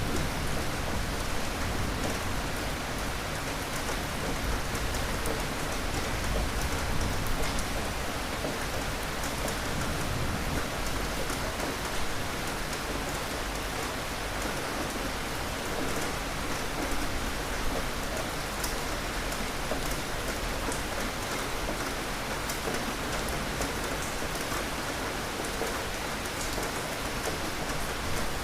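Steady rain falling, with fine drop ticks throughout. A low rumble of distant thunder sits under it for the first several seconds and then fades.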